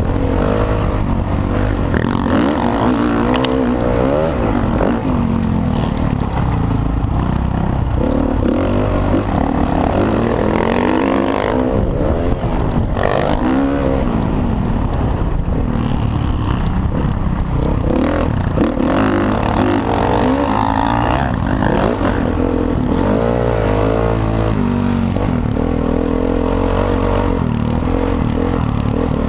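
Motocross dirt bike engine running hard, its pitch rising and falling again and again as it revs up and down, over a constant low rumble.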